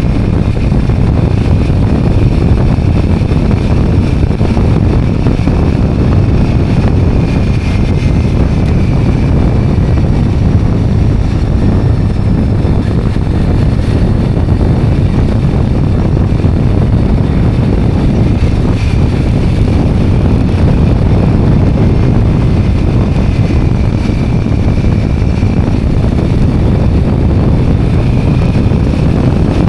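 Steady, loud wind rush buffeting the microphone while riding a two-wheeler, with road and vehicle noise underneath and no breaks.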